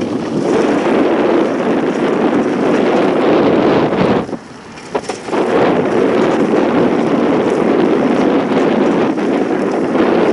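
Wind buffeting the microphone as a loud, steady rushing, easing off for about a second midway before rising again.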